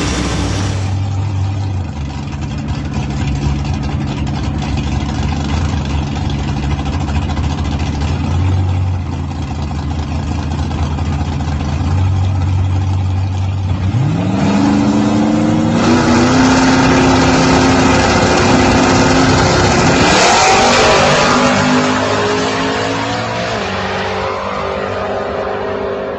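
Drag-racing car's V8 engine running at low revs with a steady pulsing note, then revving up about fourteen seconds in and running hard at high revs for several seconds, with further climbs in pitch, before easing back down near the end.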